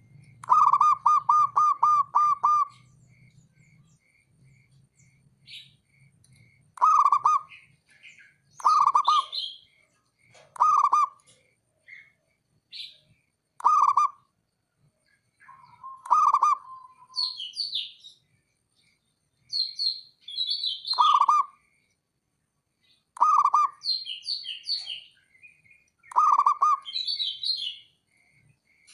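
Zebra dove (perkutut) cooing: a quick run of about seven short notes about half a second in, then single or doubled coos every two to three seconds. Higher chirps of another small bird come between the coos.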